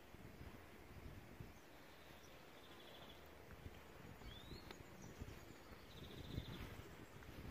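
Faint birdsong: a small bird repeats a short trilled phrase about every three and a half seconds, with a couple of quick rising notes in between, over a low rumble.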